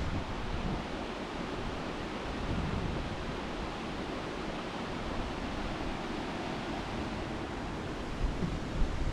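Steady rush of a waterfall, an even wash of falling water without breaks.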